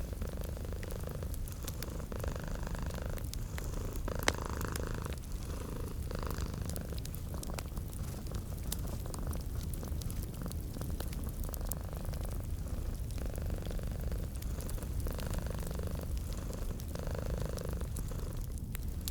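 Domestic cat purring steadily, swelling and fading with each breath in a slow rhythm, over the crackle of a wood fire. One sharp pop from the fire comes about four seconds in.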